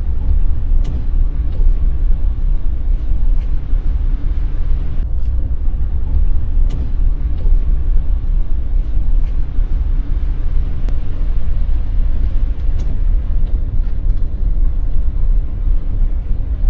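Van driving on a road: a steady, loud low rumble of engine and tyres.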